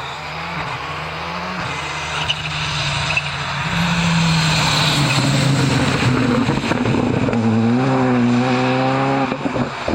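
Rally car engine coming closer and getting louder over the first few seconds, then revving hard, its pitch rising and falling through gear changes in the last few seconds.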